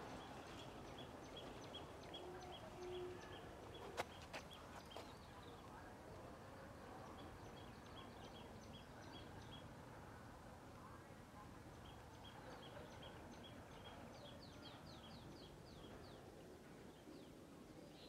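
A small bird calling faintly, one short high note repeated about two or three times a second in runs of several seconds, over quiet garden background noise. A single sharp click sounds about four seconds in.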